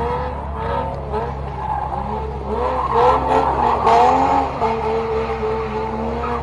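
Car engine revving, its pitch rising and falling again and again over a steady low rumble, loudest about three to four seconds in.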